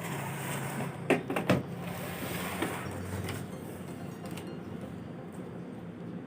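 Robot vacuum cleaner running with a steady motor hum and whirr, with two sharp plastic clunks about a second in.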